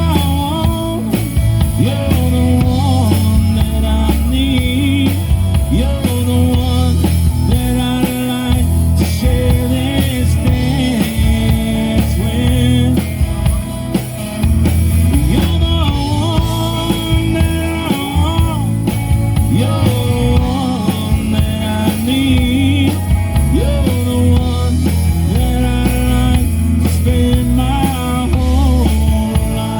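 Live rock band playing: drum kit and bass guitar driving a steady beat under guitars, with a sliding melody line over the top.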